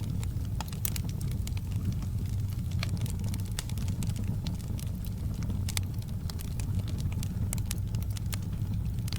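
Wood fire burning in a fireplace, crackling: frequent irregular sharp pops and snaps over a steady low rumble.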